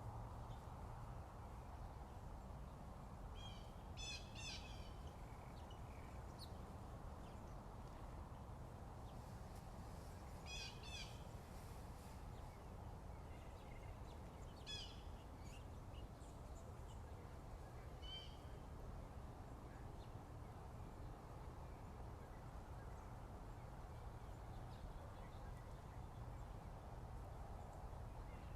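Wild birds calling in short bursts of quick, high notes, about five times, over a steady low background rush.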